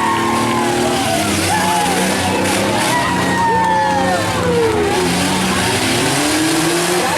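Several compact truck and van engines revving up and down over a steady engine drone during a demolition derby heat.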